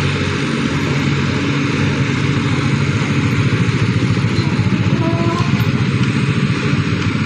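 Engine running steadily and loudly, with a fast, even pulsing rattle throughout.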